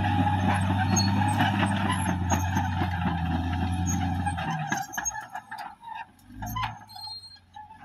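Caterpillar D6R XL bulldozer's diesel engine running steadily with a low hum, then dropping away suddenly about halfway through, leaving faint scattered clicks and a brief low hum.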